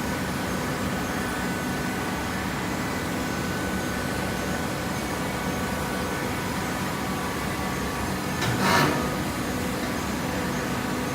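Coconut fiber baling machine running with a steady mechanical hum, with a brief louder burst of noise about eight and a half seconds in.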